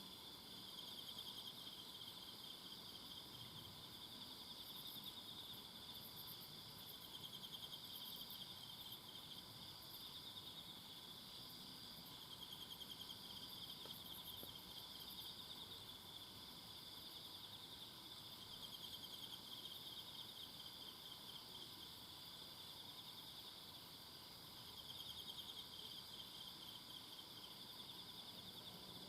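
Faint chorus of several insects calling together in a forest at night-quiet levels: a continuous, finely pulsing high-pitched trill, with fainter, even higher chirps coming and going over it.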